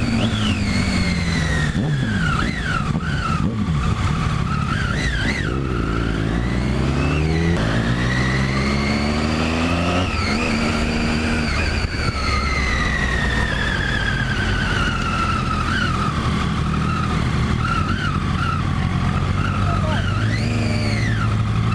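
Sport motorcycle's engine heard from on board, its pitch rising and falling again and again as the rider opens and closes the throttle and changes gear, over steady wind and road noise.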